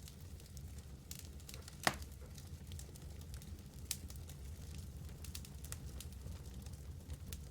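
Wood fire in a fireplace crackling, with scattered sharp pops over a low steady rumble of the flames; the loudest pop comes about two seconds in.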